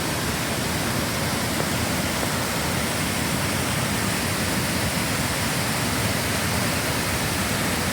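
Waterfall swollen by heavy rain, its rushing floodwater a steady, dense roar with no breaks.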